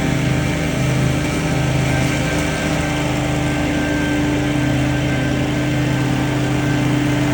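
Gas-powered leaf blowers running steadily at a constant engine speed, with a slight pulsing in the low engine note.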